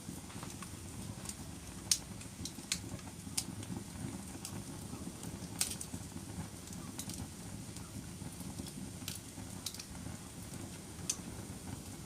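Wood fire burning in a fireplace: a steady low rumble of flames with irregular sharp crackles and pops, the loudest about two seconds in.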